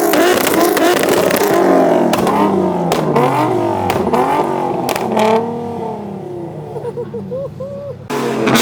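Car engine revving again and again, its pitch swinging up and down, loud for about five seconds and then fading. A sudden louder sound cuts in near the end.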